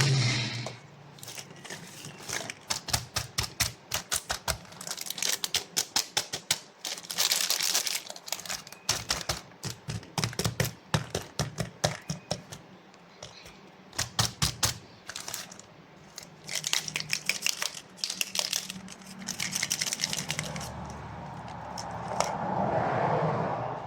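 Runs of rapid, sharp clicks and taps, several a second, broken by a few stretches of crinkly rustling, with a swelling rustle near the end.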